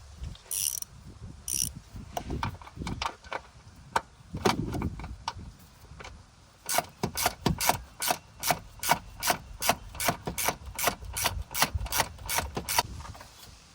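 Hand ratchet wrench clicking as it works a bolt in a car's engine bay: scattered clicks and clunks at first, then a steady run of about three clicks a second for several seconds near the end.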